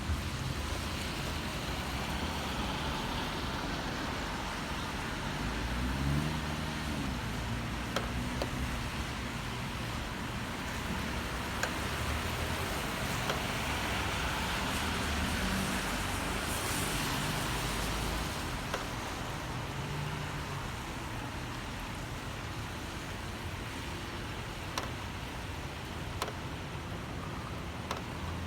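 Steady rain with city traffic passing on the street below, engine sounds swelling and fading, and a few sharp ticks.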